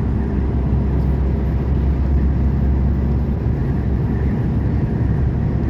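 Low, steady drone of a Volvo truck's diesel engine with road noise, heard from inside the cab while cruising on the highway.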